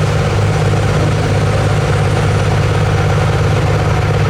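Diesel pickup truck engine running steadily with a low rumble, no revving.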